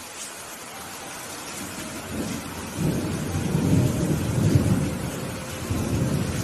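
Rolling thunder over steady rain: a deep rumble builds about two seconds in, peaks in the middle and fades near the end, while the rain hisses on underneath.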